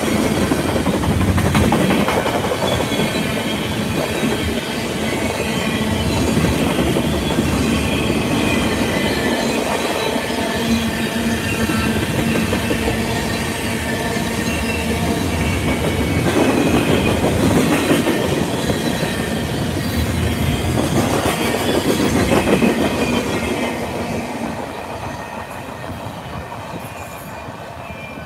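Freight train passing at close range: tank cars and boxcars rolling by with steady wheel-on-rail noise and a faint wheel squeal. The sound fades away near the end as the last car goes by.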